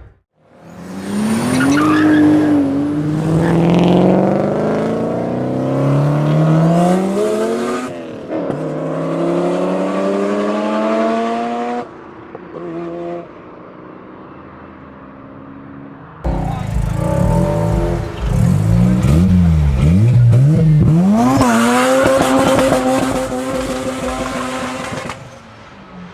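Street-ported Mazda RX-7 FD3S twin-rotor 13B rotary engine with a large single turbo and shotgun exhaust, accelerating hard: the pitch climbs steeply, drops sharply at a shift about eight seconds in and climbs again. After a quieter spell of steady running it revs up and down in quick swings, then holds a high, steady rev before dropping off near the end.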